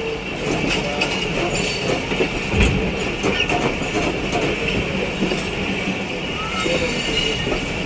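Passenger train running slowly out of a station, heard from an open coach door: a steady rumble and hiss of wheels on rail, with scattered clicks as the wheels cross rail joints and points.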